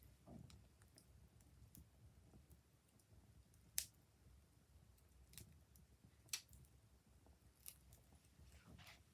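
Wood fire crackling faintly, with a few sharp, irregularly spaced pops over a low background hum.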